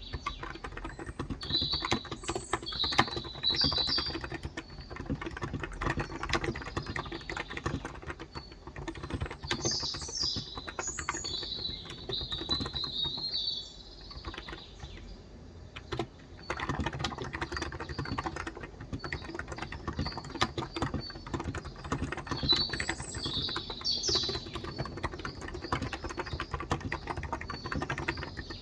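Typing on a Cox Endeavour electro-capacitive (non-contact) 35 g tenkeyless keyboard: a dense run of key strokes that stops for a few seconds about halfway, then resumes. Birds chirp in short bursts behind the typing, three times.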